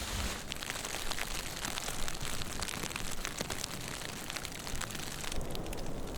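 Snow pattering on tent fabric: a dense, irregular run of light ticks over a steady low rumble.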